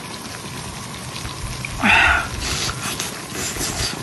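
Small Guizhou bao jiang tofu cubes sizzling and crackling on a hot grill, with a brief louder hiss about two seconds in.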